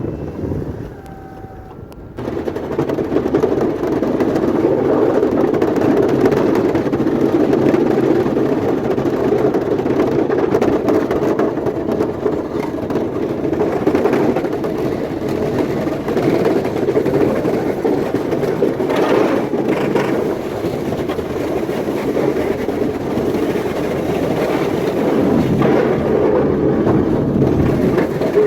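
Engine of a snow-clearing machine running steadily under load, starting suddenly about two seconds in.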